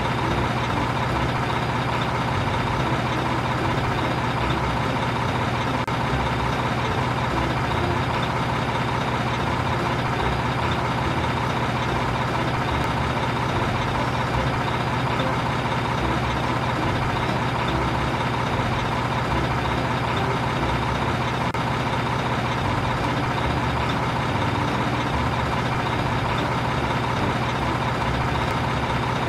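Truck engine idling: an unchanging drone that holds the same level throughout.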